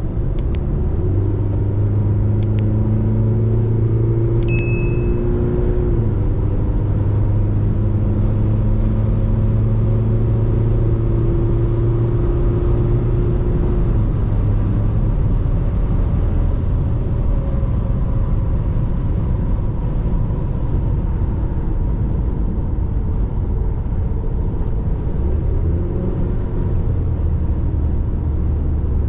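RAM Rampage Rebel's 2.2 turbo diesel engine running steadily on the move, a low drone over road noise, its pitch shifting slightly a few times.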